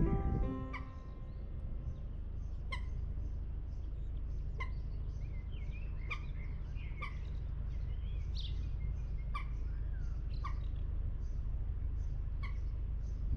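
Birds calling: a short sharp call repeated every one to two seconds, with a spell of warbling song in the middle, over the steady low rumble of the narrowboat's engine. A music track ends just at the start.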